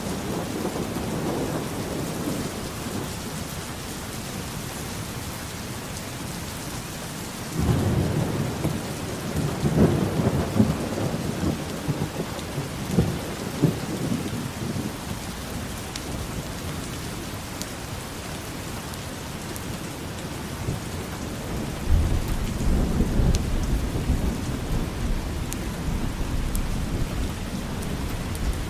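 Steady rain falling with thunder rumbling twice: a long roll starting about a quarter of the way in and a deeper one starting about two-thirds of the way through.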